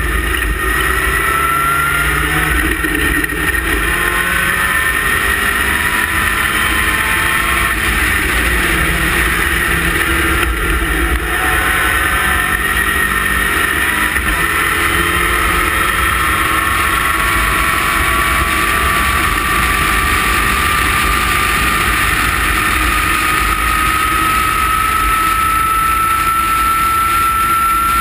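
Westfield sports car's engine running hard at high revs, heard from on board the open-cockpit car with wind noise. Its pitch dips and rises in the first half, then climbs slowly and steadily through the second half as the car accelerates down a straight.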